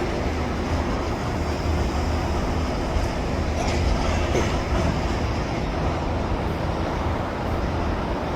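Freight train of hopper cars rolling past, a steady rumble and clatter of steel wheels on the rails.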